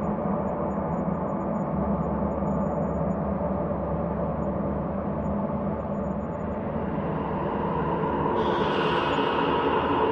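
Ambient space drone: a steady, layered hum of sustained low and middle tones. About eight seconds in, a brighter, hissy layer enters and the drone grows a little louder.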